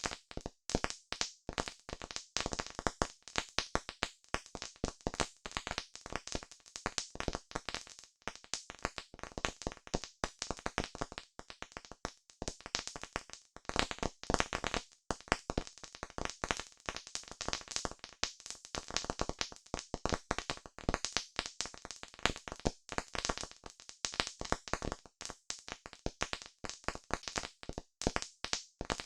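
Campfire crackling: a dense, irregular stream of sharp pops and snaps from burning wood.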